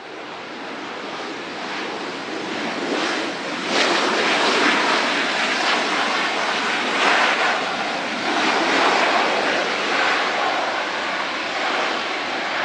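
Aircraft engine noise: a broad rush that swells over the first few seconds as the plane approaches, then holds loud.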